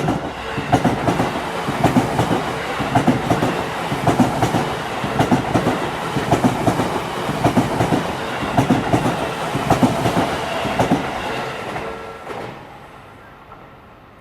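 An electric commuter train passing close through a level crossing, its wheels clattering over the rail joints in an uneven rhythm. The sound stops fairly suddenly about twelve and a half seconds in. The crossing's Odakyu-type electronic warning alarm keeps ringing under it with a steady pulsing tone, heard clearly again just before the train sound stops.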